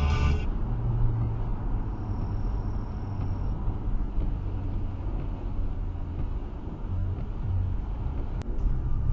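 Steady low road rumble of a car at motorway speed, heard from inside the cabin.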